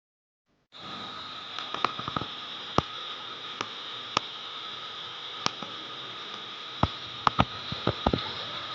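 Steady hiss of heavy rain with irregular sharp taps of drops hitting nearby surfaces, starting abruptly just under a second in.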